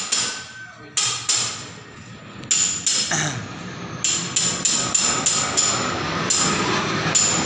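Hammer blows with a metallic ring, about a dozen strikes in irregular runs of two or three a second, typical of building or renovation work.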